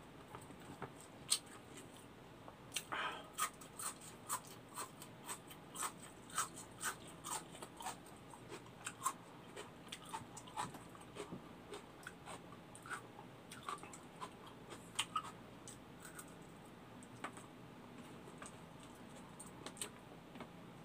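A person eating close to the microphone: chewing and mouth smacks, heard as many short, crisp clicks, thick through most of the stretch and thinning out near the end.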